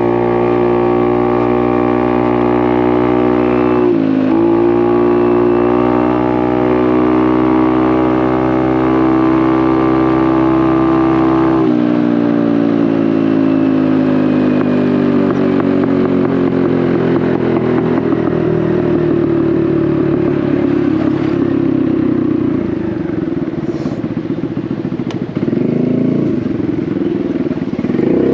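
Honda Navi's small single-cylinder engine through a Vance & Hines exhaust, ridden at steady throttle. It dips briefly about four seconds in. From about twelve seconds its pitch falls slowly as the throttle comes off and the bike slows, and it picks up again near the end.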